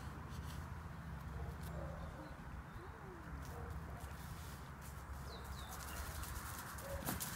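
Faint wild bird calls: a few low, sliding coos and a couple of short high chirps, over a steady low rumble, with faint clicks near the end.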